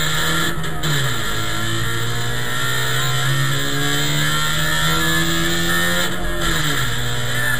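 Trabant's two-stroke twin-cylinder engine heard from inside the race car under hard acceleration. The engine pitch climbs steadily, then falls sharply at a gear change about a second in and again near the end.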